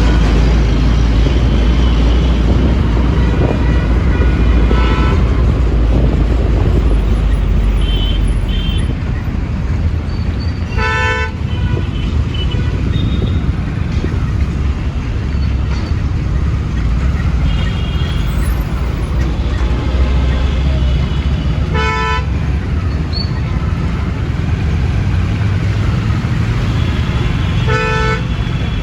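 Busy road traffic with a steady low rumble, and vehicle horns honking in short blasts several times: three clear ones spread through it and fainter ones in between.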